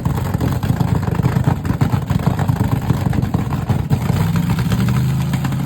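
A car engine running loudly with a rapid, pulsing exhaust rumble. About four seconds in it settles into a steadier held note.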